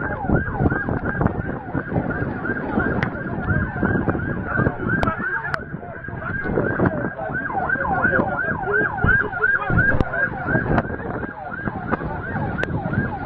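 Emergency vehicle siren yelping, a fast rise-and-fall repeating about three times a second, over a dense background din.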